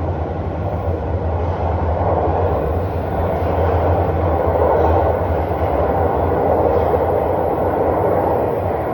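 TTC Line 1 subway train running through a station platform: a steady rumble of wheels on rail and traction motors, swelling a little midway.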